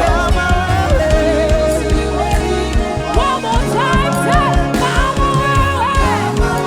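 Live gospel praise-and-worship band music: a melody line bending and sliding between notes over steady bass notes and regular drum beats.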